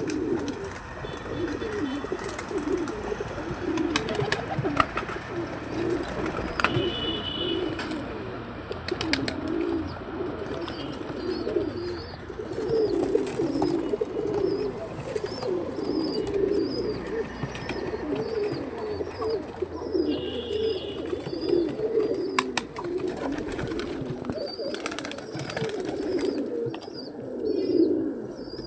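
A flock of domestic pigeons cooing continuously, many low warbling coos overlapping one another. Scattered sharp clicks and a faint repeated high chirp from a smaller bird come through the cooing in the second half.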